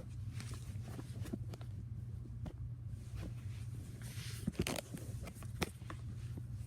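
Scattered clicks and rustles of an object being handled and worked on, with a short scraping burst about four seconds in and a sharp click soon after, over a steady low hum.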